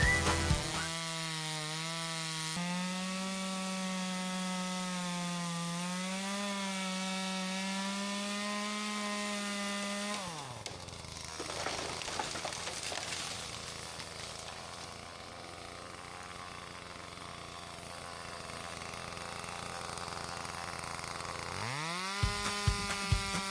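Chainsaw running at high revs, cutting through the log of a fallen tree for firewood. It drops to idle about ten seconds in, then revs up again near the end.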